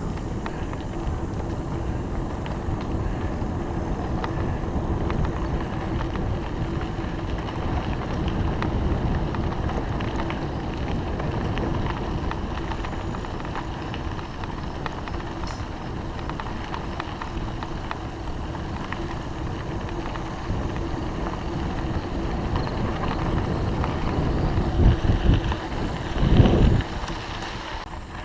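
Wind rumbling on the microphone with bicycle tyre and road noise while riding, with a few louder bumps near the end.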